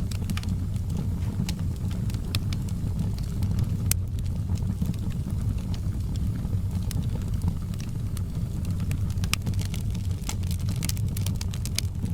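Wood fire burning in a fireplace: a steady low roar with scattered sharp crackles and pops, more of them near the end.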